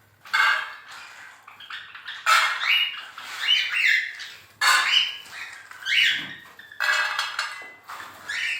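Caged pet birds squawking: a series of harsh, scratchy calls, several of them sweeping sharply upward in pitch.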